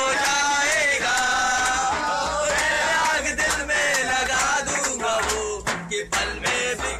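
Group of men singing a song together to the beat of a dhapli frame drum, which strikes about once a second.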